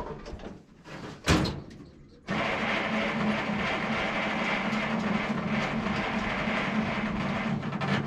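The project car's engine being cranked over by the starter, a steady mechanical run of about six seconds that comes in suddenly about two seconds in. The owner is trying to bring the engine to life after a winter of sitting. A single sharp knock comes about a second in.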